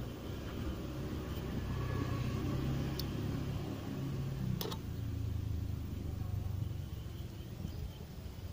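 A motor engine running steadily in the background, a low hum, with two sharp clicks about three and four and a half seconds in.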